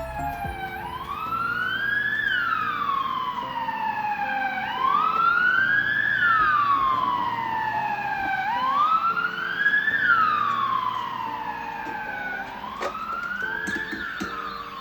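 Police-style wailing siren: a slow rise and fall in pitch, repeating about every four seconds.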